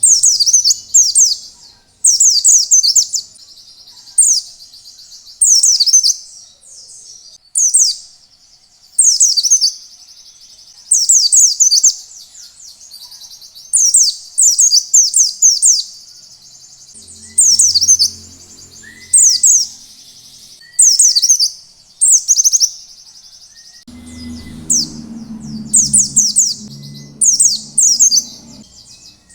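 Pleci (white-eye) singing in loud, high, rapid twittering phrases about a second long, repeated every second or two, in the long wild 'ngalas' style used as a lure to set other pleci singing. A low rumble runs under the song for a couple of seconds past the middle and again through the last few seconds.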